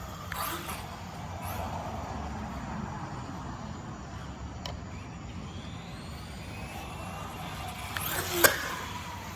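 Radio-controlled rally car driving, its motor faintly rising in pitch as it speeds up, over a steady low hum. A single sharp knock near the end is the loudest sound.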